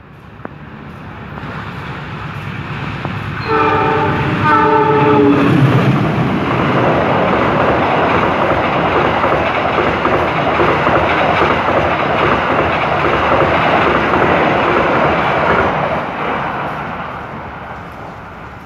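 Passenger train passing at speed, about 85–100 km/h. Its locomotive horn sounds two short blasts about four seconds in, the second dropping in pitch as the locomotive goes by. The coaches then rush past with a loud, steady clatter that fades away near the end.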